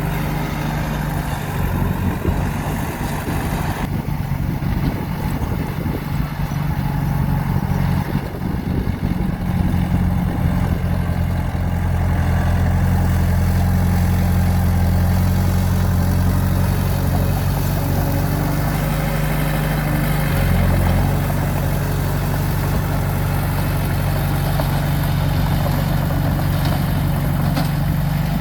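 Bulldozer's diesel engine running steadily under work, its low drone shifting slightly in pitch and load now and then.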